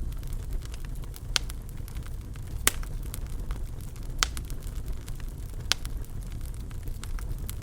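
Fire in a fireplace crackling over a low, steady rumble, with four sharp pops standing out among fainter ticks.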